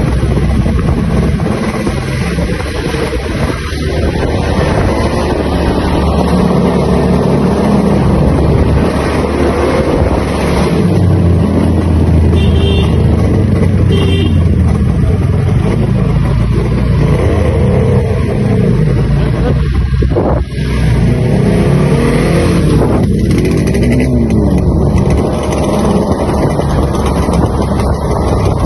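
Yamaha RD350's two-stroke parallel-twin engine running loudly through its exhaust, revved up and down several times.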